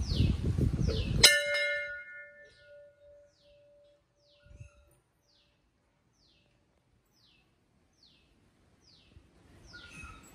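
A temple bell struck once, about a second in, after a moment of rumbling noise; it rings with a clear tone and fades out over two to three seconds. A bird calls repeatedly in short falling chirps, about two a second.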